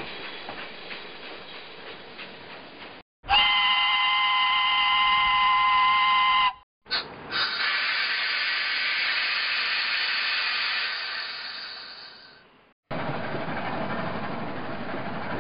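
A string of separate train recordings: faint rail clatter with ticking, then a train whistle blown steadily for about three seconds as a chord of several tones, then a loud hiss with a faint whistle in it that fades away, then a train running.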